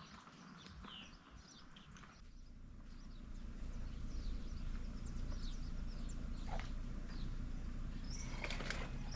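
Creekside ambience: a low rumble that grows louder about three seconds in, with short bird chirps scattered over it.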